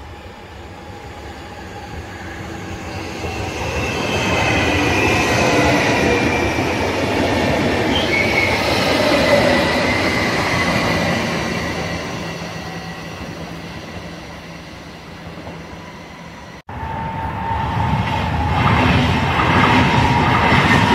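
An SBB double-deck electric S-Bahn train passes close by, its motors whining over the noise of the wheels on the rails. It builds to a peak about five seconds in and slowly fades. After a sudden cut, another double-deck train passes at a level crossing, with a steady high tone alongside it.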